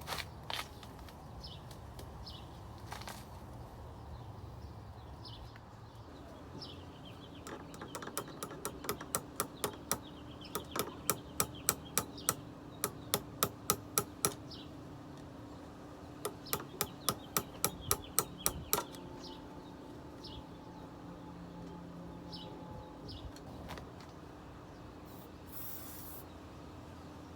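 A run of sharp clicks, about three a second, growing louder, breaking off briefly and starting again before stopping.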